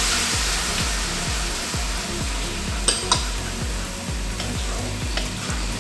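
Salted-egg and garlic sauce sizzling in a nonstick wok just after water is added, stirred with a wooden spatula. The sizzle is strongest at the start and eases off, with two quick knocks of the spatula on the pan about three seconds in.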